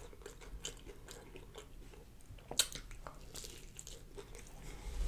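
Close-up mouth sounds of biting and chewing fried catfish fillet: faint, soft crunches and smacks, with one sharper crunch about halfway through.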